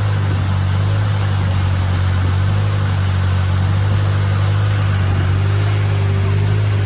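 A boat's single engine running steadily under way: a strong, even low drone with a constant hiss over it.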